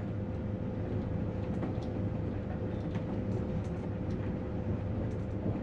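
Passenger train carriage running, heard from inside the cabin: a steady low rumble with a constant hum and a few faint ticks.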